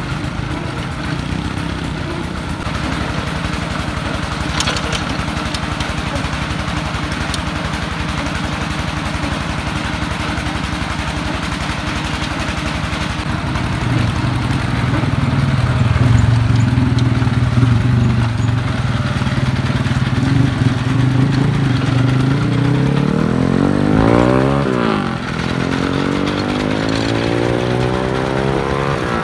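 D22 diesel engine of a công nông farm vehicle running. It gets louder about halfway through, is revved up and back down a little after twenty seconds, then climbs in pitch again near the end.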